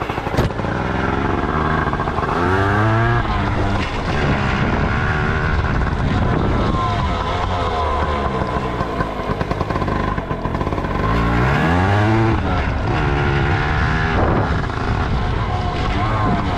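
Dirt bike engine running under way, its pitch climbing and dropping several times as the throttle is opened and closed.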